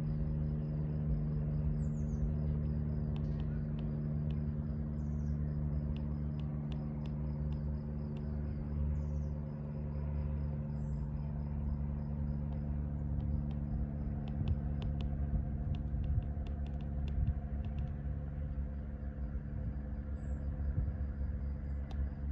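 Outdoor ambience: a steady low mechanical hum underneath, an insect chirping evenly about four times a second, a few short high bird chirps and scattered light ticks.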